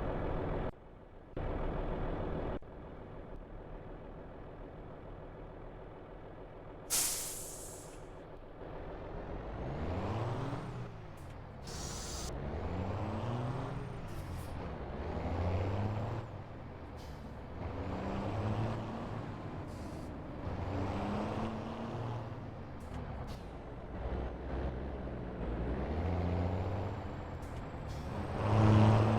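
Scania V8 truck engine idling steadily, with a short sharp air hiss about seven seconds in and another about twelve seconds in. From about ten seconds in, the engine revs up and drops back again and again, every two to three seconds, louder near the end.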